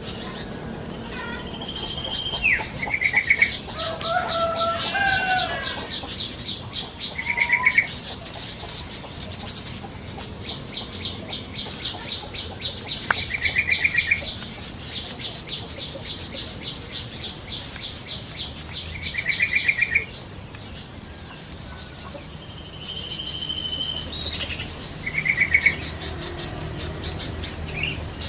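Yellow-vented bulbuls (trucukan) calling in the wild: short bubbly phrases every few seconds over long, fast, high trills of repeated notes and other birdsong.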